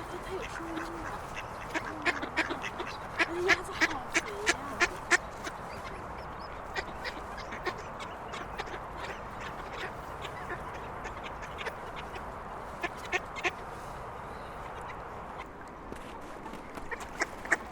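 Ducks quacking over the steady hum of heavy road traffic. A run of sharp clicks, about three a second, comes from about two to five seconds in, with a few more later.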